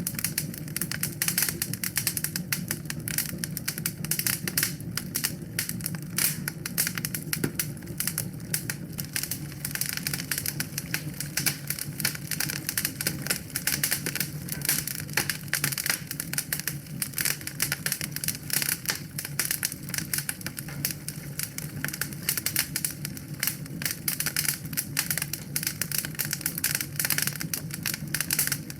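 Wood fire burning in a fireplace, crackling with a dense, irregular stream of small pops over a steady low rumble.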